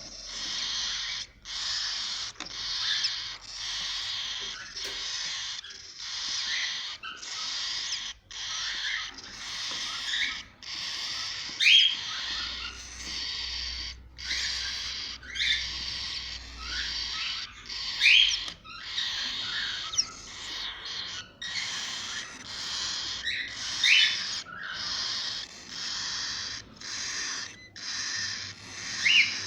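Cockatiel chicks giving raspy, hissing calls over and over, about one a second. A few sharper rising squeaks stand out, the loudest about twelve and eighteen seconds in.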